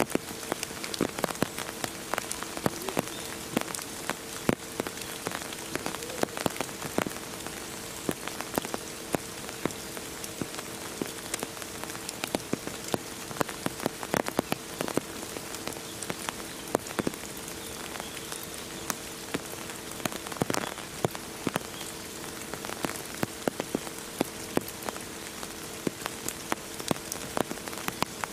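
Rain falling and pattering on a surface: a steady hiss broken by many sharp, irregular drop ticks. A steady two-tone hum runs underneath.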